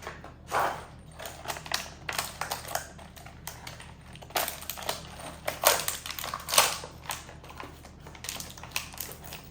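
Cart parts and hardware being handled and fitted together during assembly: irregular clicks, knocks and rattles, with the loudest knocks around six seconds in.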